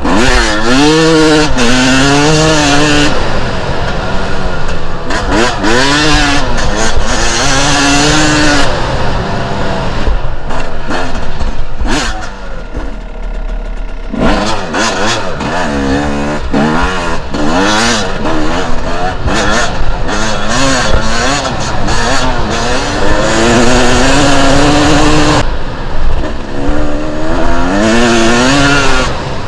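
Two-stroke enduro dirt bike engine revving up and falling back again and again under throttle, with a brief lull about twelve seconds in before it pulls hard again.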